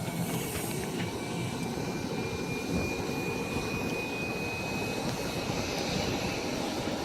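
Jet aircraft engines running: a steady rumble with a thin high whine that rises slightly in pitch and stops about five seconds in.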